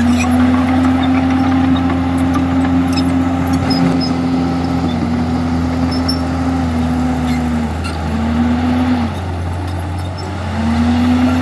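Komatsu D51EX bulldozer's diesel engine working. Its pitch holds steady, sags a little about five seconds in and again near seven, drops away twice near the end, then picks back up.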